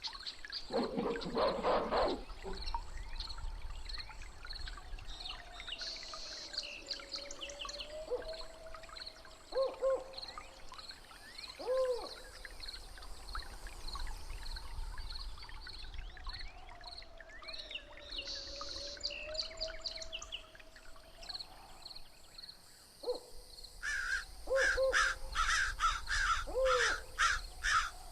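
Layered jungle soundscape: assorted bird calls over a steady high pulsing and a slow, wavering low tone. Near the end comes a dense run of rapid, repeated calls.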